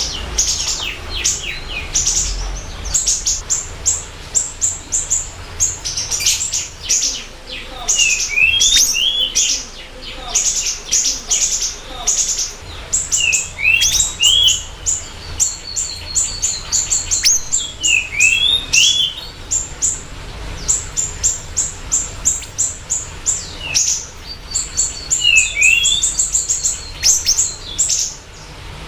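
Siri-siri songbird singing: fast runs of high, sharp chirps, broken every five seconds or so by a short phrase of lower, swooping notes.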